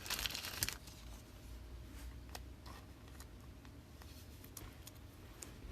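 Trading cards and their packaging being handled: a short crinkling rustle in the first second, then light clicks and taps.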